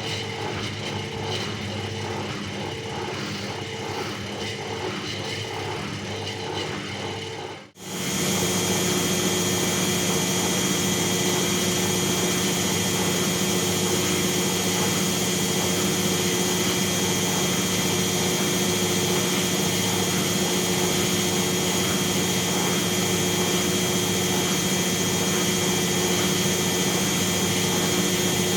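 Bauknecht WAS 1400 washing machine running: a rhythmic mechanical churning for the first several seconds, then, after a sudden break, a louder steady high whine as the drum spins at high speed.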